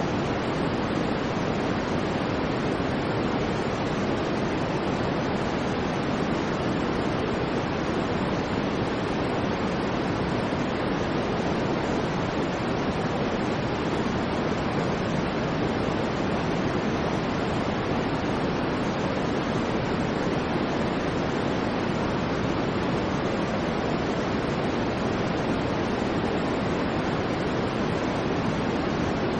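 Steady, unchanging white noise played as a sleep and focus sound, a smooth hiss weighted toward the deeper part of the range rather than sharp treble.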